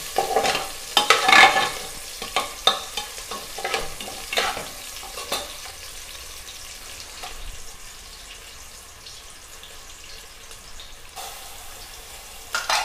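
Shallots, curry leaves and mustard seeds sizzling in hot oil in an aluminium pressure cooker. A metal slotted spoon scrapes and knocks against the pot during the first few seconds. The steady frying hiss then carries on alone, with a few more clatters near the end.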